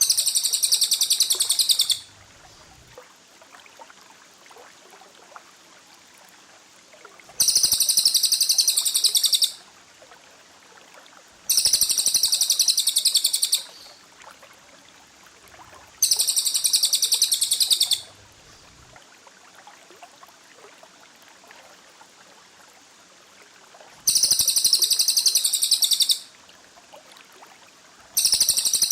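Cililin and lovebird song for bird training: sharp, rapid-fire high trills ('tembakan rapat') in six bursts of about two seconds each, separated by gaps of low hiss.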